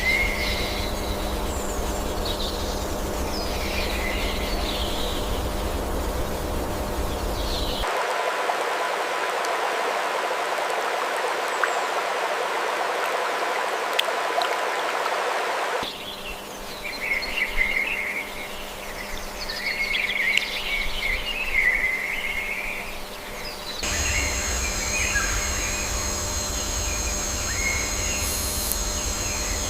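Birds chirping and calling in a natural soundscape that changes abruptly about every eight seconds. A stretch in the first half is an even steady hiss with no calls, and the last part carries steady high-pitched buzzing tones alongside the chirps.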